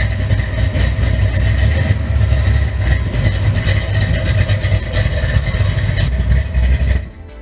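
Pontiac GTO's V8 engine running with a loud, deep low rumble, which cuts off suddenly near the end.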